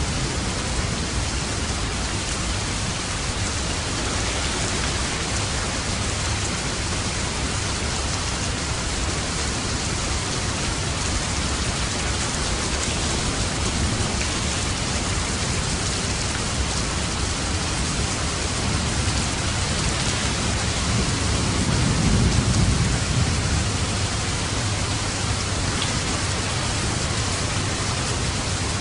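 Steady rain drumming on a roof. A low rumble of thunder swells and fades about three quarters of the way through.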